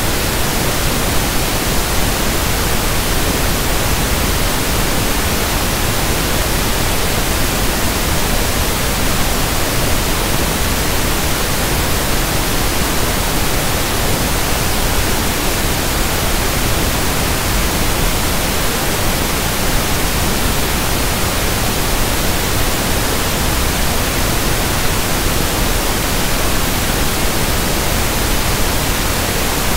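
Steady synthetic pink noise (1/f noise): an even, unchanging hiss across the whole range, with no events or variation.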